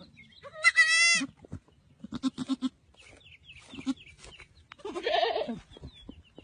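Animal calls: a loud, long, wavering cry about half a second in, then short repeated calls, and another cry about five seconds in.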